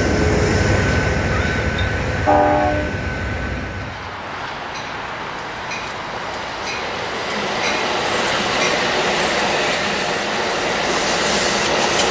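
Passing train: a low rumble that fades about four seconds in, a short horn blast about two seconds in, then wheels clicking over rail joints about once a second.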